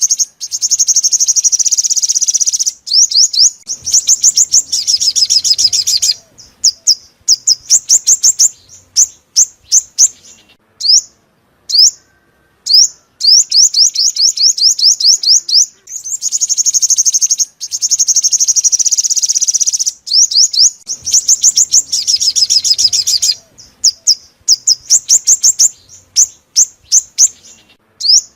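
Sunbird song: long runs of rapid, very high trilled notes broken into strings of separate sharp chirps. About halfway through, after a short pause, the same sequence of phrases comes round again, as in a looped lure recording.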